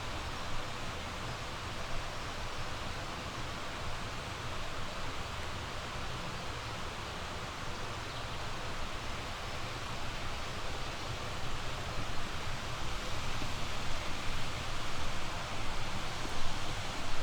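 Steady rushing of a flowing mountain stream, growing a little louder near the end.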